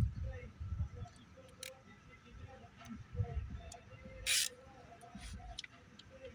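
Hand tools and parts being handled during engine disassembly: scattered light clicks, a short hiss about four seconds in, over a low uneven rumble.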